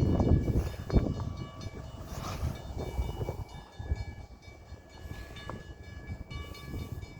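CN train stopped at a railroad crossing: a low rumble, loudest in the first second or so, with steady high ringing tones that stop and start.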